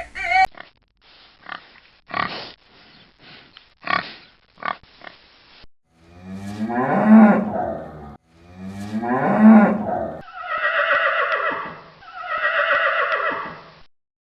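A sequence of farm animal calls. A run of short grunts comes first, then two long, low calls of about two seconds each, then two higher, wavering calls near the end.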